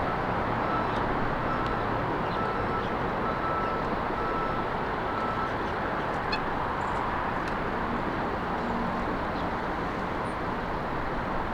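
Steady noise of road traffic, with a few faint, short high bird chirps scattered through it.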